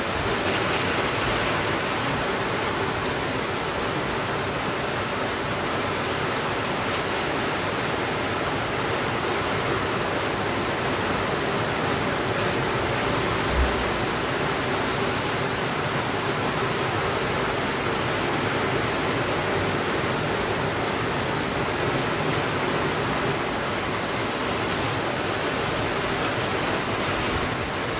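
Steady rainfall, an even unbroken hiss with no thunder. A single short low thump sounds about halfway through.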